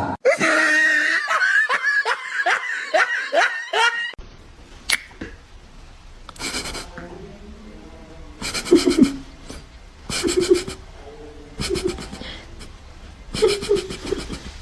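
A person laughing hard, a rapid run of about ten falling bursts over the first four seconds. After that the laughter gives way to a quieter stretch with a few sharp slaps or knocks and short voice sounds.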